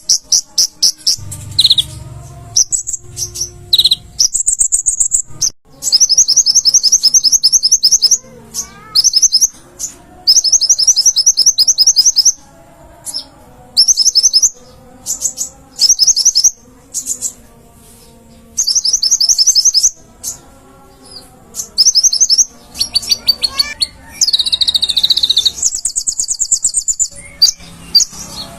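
A konin (kolibri ninja) sunbird singing: rapid, high-pitched twittering trills in bursts of one to two seconds, repeated again and again with short pauses between.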